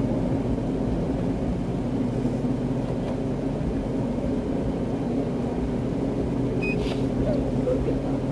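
Steady engine and road noise inside a moving patrol car's cabin, with a short electronic beep about seven seconds in.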